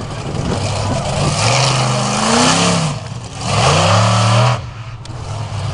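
Snake Bite monster truck's engine revving hard in two long surges, its pitch climbing and falling, with a brief drop in loudness about three seconds in.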